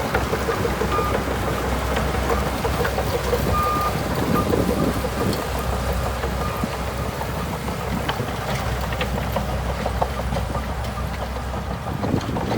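Shantui DH17C2 bulldozer's diesel engine running steadily under work, with occasional metallic clanks. Two short beeps sound, about a second in and again around four seconds.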